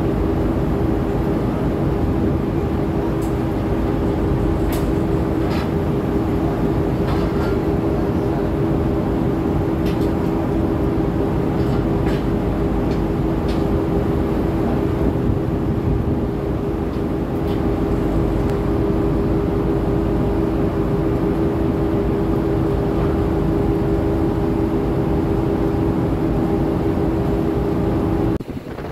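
Steady drone of a passenger ship's machinery underway: a constant hum over a low rumble. It cuts off shortly before the end.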